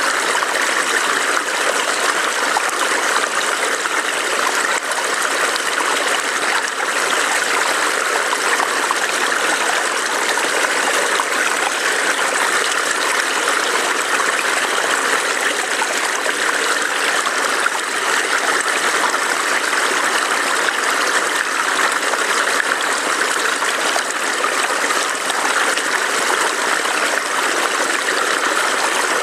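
Small forest stream burbling and trickling over rocks, a steady, unbroken rush of water.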